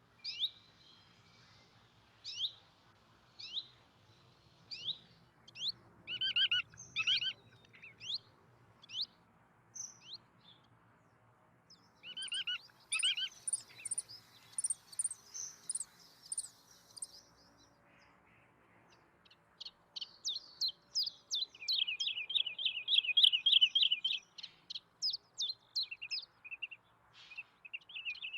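Small songbirds calling and singing: sharp, falling single chirps spaced about a second apart at first, then bunched phrases, and from about two-thirds of the way in a fast, rapid trilling song.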